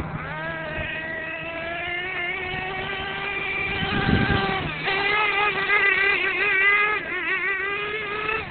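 Small fuel engine of an RC monster truck running at high revs. Its buzzing pitch climbs slowly, then warbles up and down with quick throttle blips near the end.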